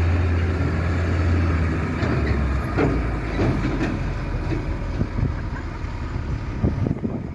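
Heavy tractor-unit truck's diesel engine running, with a loud low drone that drops away about two and a half seconds in, followed by a quieter rumble with scattered knocks and clatter.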